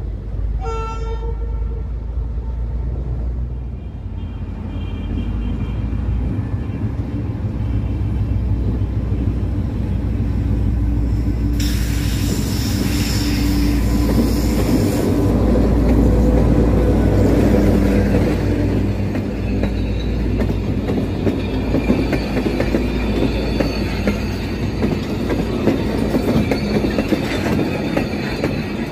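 Diesel locomotive hauling passenger coaches past at close range. It gives a short horn blast about a second in, and its engine rumble builds to a peak as it passes. A shrill high-pitched burst lasts a few seconds near the middle. The coaches then roll by with rapid wheel clatter over the rail joints.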